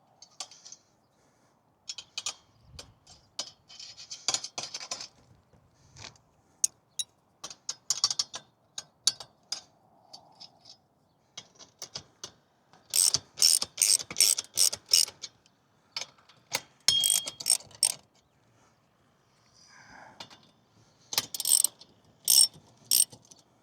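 Ratchet wrench clicking in short, fast runs as bolts on the hex beam antenna's mount are loosened so the beam can be turned.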